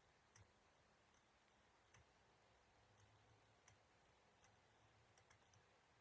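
Near silence, with a handful of faint, sharp clicks at irregular intervals.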